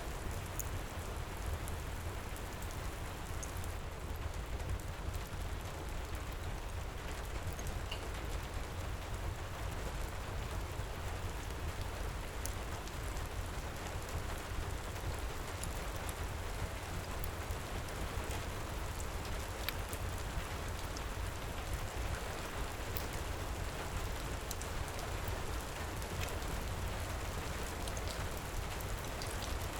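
Heavy rain pouring steadily: an even, dense hiss with a low rumble underneath. Occasional faint, sharp crackles from a wood fire are scattered through it.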